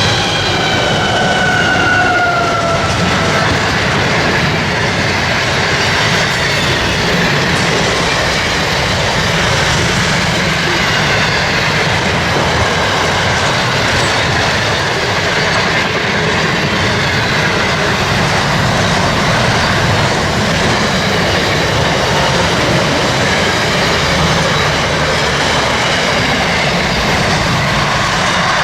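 Freight train wagons rolling past at speed, a loud steady rumble of wheels on rail with clickety-clack. In the first few seconds a high pitched whine slides downward and fades out.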